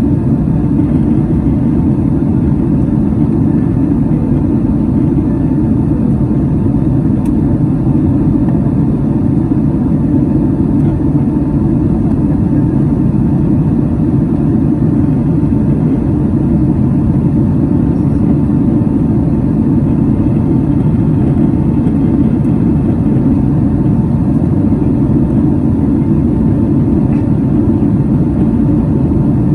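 Steady cabin noise inside a Boeing 767 airliner in flight: a loud, even rumble of jet engines and airflow with a faint steady whine above it.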